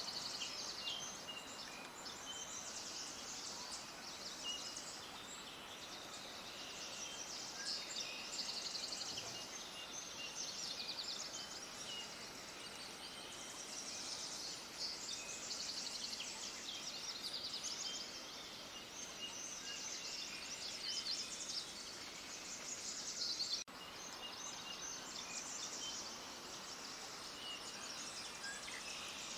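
A dense chorus of many small birds chirping and twittering together, high and busy, over a steady background hiss, with a sudden brief break about two-thirds of the way through.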